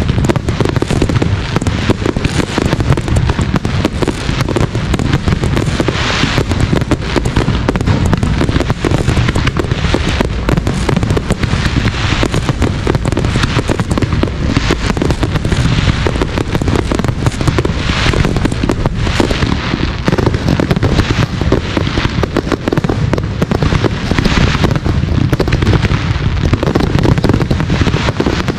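Aerial firework shells bursting in a dense, continuous barrage, many reports overlapping without a pause.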